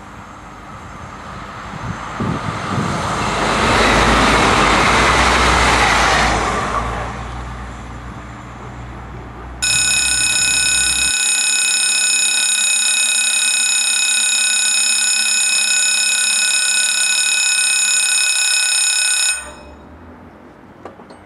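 A TER regional railcar passing, its noise swelling to a peak and fading away. About ten seconds in, a steady, high-pitched electronic alarm tone starts abruptly, holds for about ten seconds and cuts off.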